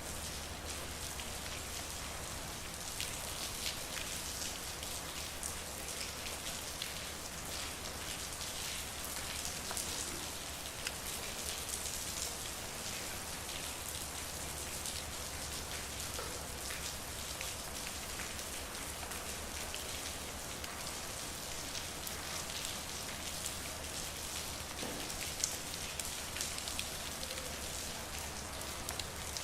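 Steady rain falling on a street, a dense patter of drops with sharper individual drips and splashes scattered through it, over a faint low hum.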